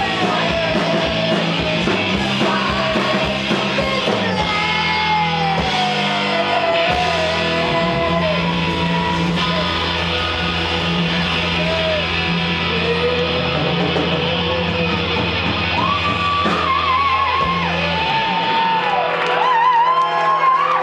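Live rock band playing an instrumental passage: guitar with notes sliding and bending in pitch over sustained bass notes, heard in a large room. The bass drops out near the end as the song winds down.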